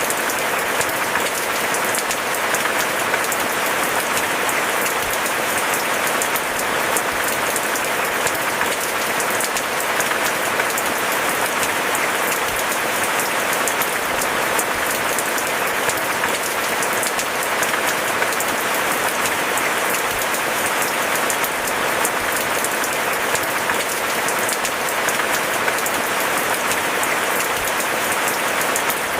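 Steady rainfall: a continuous, even hiss made of many drops pattering on surfaces.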